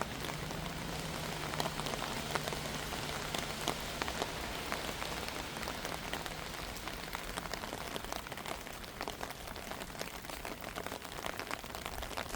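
Steady rain falling, with many sharp taps of individual drops landing close by.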